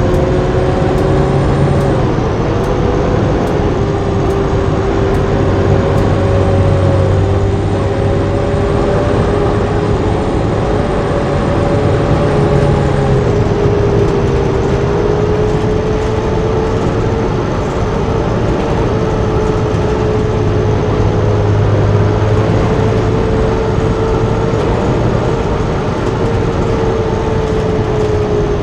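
Blue Bird bus under way: engine and drivetrain drone with road noise. The drone's pitch shifts down about 2 seconds in and again about halfway through, and there is light, regular ticking in the first few seconds.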